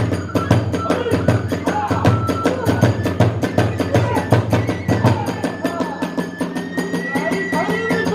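Kagura hayashi music: taiko drums and clashing hand cymbals beat a fast, even rhythm under a high bamboo flute melody with held and sliding notes.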